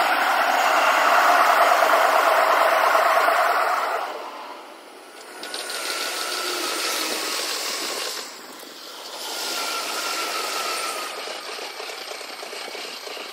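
Electric commuter trains running on a multi-track line, played at six times speed, so the wheel and motor noise becomes a high, fast rattle. A steady two-toned whine is loudest for the first four seconds, then the noise dips and swells again twice.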